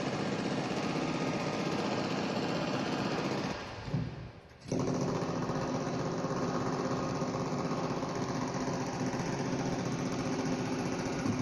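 Demolition machinery running: a steady engine note under dense, rapid clatter, breaking off for about half a second around four seconds in, then carrying on.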